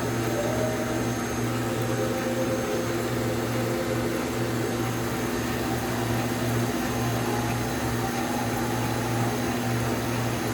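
Cheese ball forming machine running with a steady motor hum.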